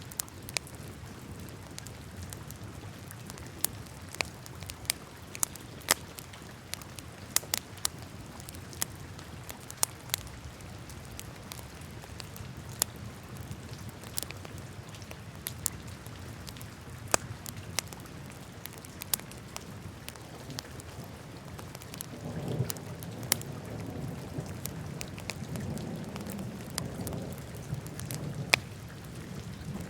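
Wood fire burning in a fireplace, crackling with sharp, irregular pops over a low steady rumble of flames. About two-thirds of the way in, a deeper rumble grows louder.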